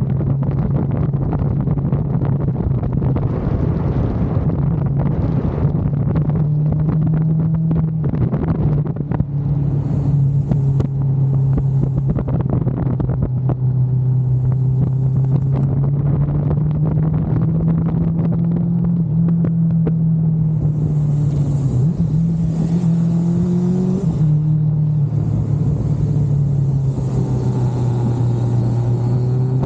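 Kawasaki GTR 1400's inline-four engine running under way, its note holding fairly steady with small shifts in pitch, then climbing and dropping back suddenly about three-quarters of the way through.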